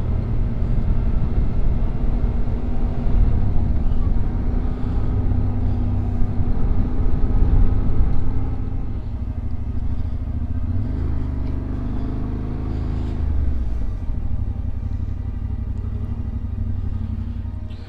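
Yamaha Ténéré 700's parallel-twin engine running steadily under way, with road and wind noise. The engine pitch rises about eleven seconds in and drops back a few seconds later.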